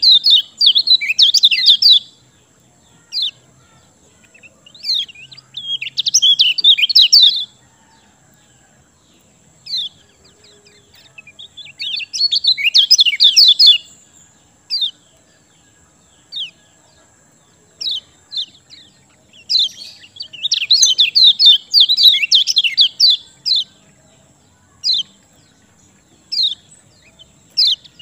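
Kecial kuning, a small white-eye, singing in full voice: several bursts of fast, high twittering song, each a second or two long, with single sharp chirps between them.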